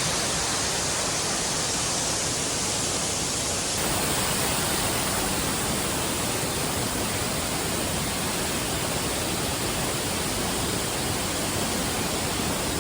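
Steady rushing noise with no distinct events, even across low and high pitches.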